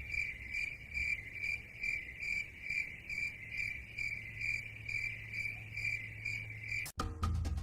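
Cricket chirping, a high steady trill pulsing about twice a second, cut off abruptly near the end as music begins.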